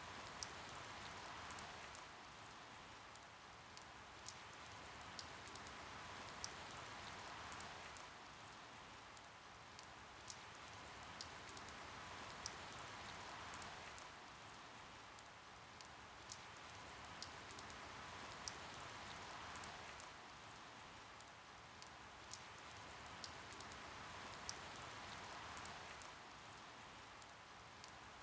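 Steady rain falling, with many sharp individual drops ticking through it. The rain swells and eases gently about every six seconds.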